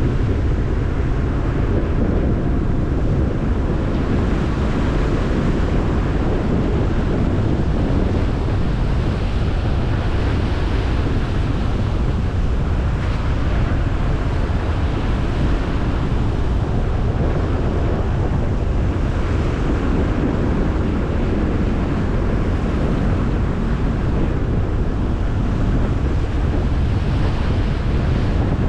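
Car driving at a steady pace: continuous road rumble from the tyres with wind noise and hiss.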